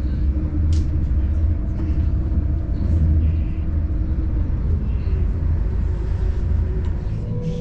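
Steady low rumble of a train running, heard from inside the passenger car, with a few faint clicks.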